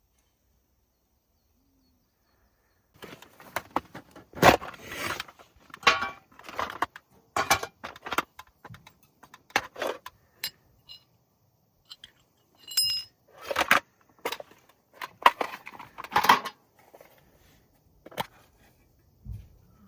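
Camping gear being handled: irregular clinks, knocks and short scrapes with some brief metallic ringing, starting about three seconds in.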